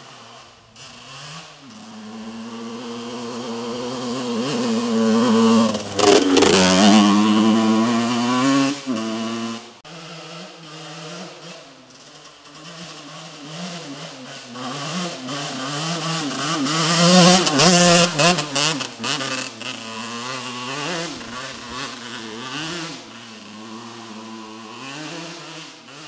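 Two-stroke motocross bike engine, a Yamaha YZ125, revving hard through the gears with its pitch rising and falling. It grows loud about six seconds in and drops off sharply near ten seconds. It builds again to a second loud peak around seventeen seconds in, then fades away.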